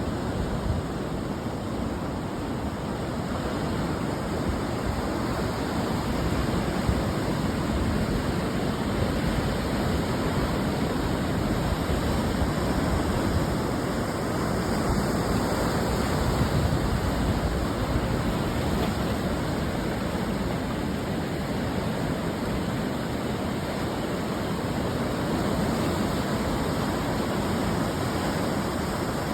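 Ocean surf breaking on a sandy shore: a steady roar of water noise that swells and eases slowly as the waves come in.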